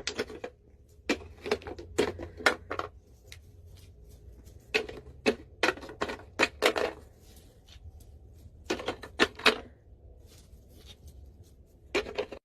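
Sharp tapping clicks in quick clusters of three to five, the clusters a couple of seconds apart.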